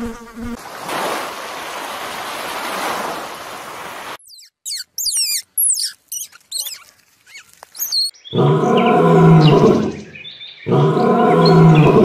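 Several animal sounds in turn. First a fly's buzz that stops about half a second in, then a steady hiss. Next come a few seconds of high, quick chirps, then a male lion's two long, deep roaring calls of about two seconds each.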